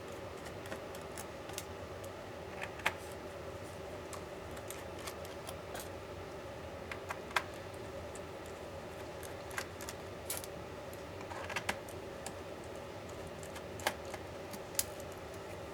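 Sharp clicks and taps of small tools and parts on a MacBook Pro being taken apart, about a dozen at irregular intervals, over a steady background hum.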